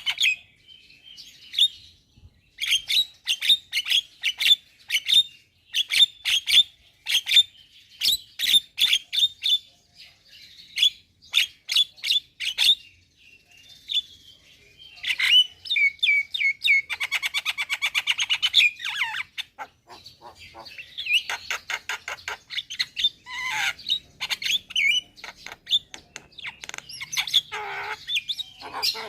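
Javan myna singing vigorously: a busy run of sharp chirps, squawky notes and fast rattling phrases, with brief pauses between bursts.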